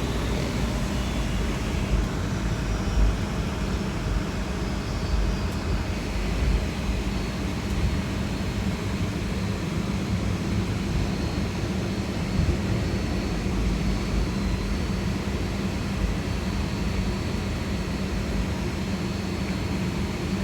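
Steady low rumble and hum of a Boeing 757 jet airliner heard from inside the passenger cabin after landing.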